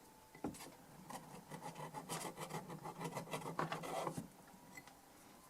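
Rubbing and scrubbing on the rusty metal casing of a DI box to clean off rust with WD-40: a quick, irregular run of scraping strokes that starts about half a second in and stops at about four seconds.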